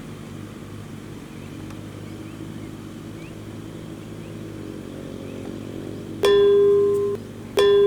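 Kubota M6040SU tractor's diesel engine running steadily. About six seconds in, a loud ringing beep sounds for just under a second, and a second one starts about a second and a half later.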